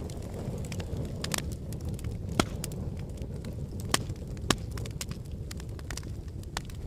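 Log fire burning in a fireplace: a steady low rumble of flame with scattered sharp crackles and pops, the loudest snaps about two and a half seconds in and twice more around four seconds.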